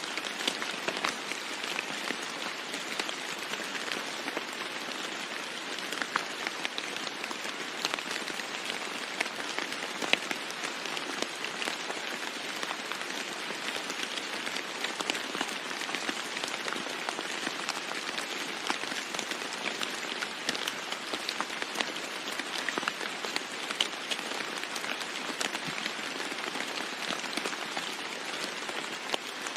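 Steady rain falling on a roof, with many close drops ticking sharply throughout.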